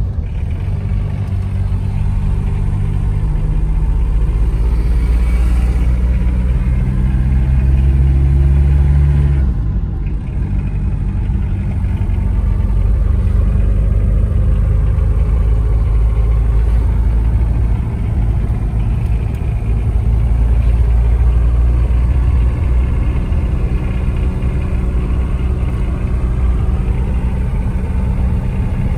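Premier Padmini 138D's 1366 cc four-cylinder FNM diesel engine running under way, heard from inside the cabin along with tyre and road noise. The sound dips briefly and the engine note changes about ten seconds in.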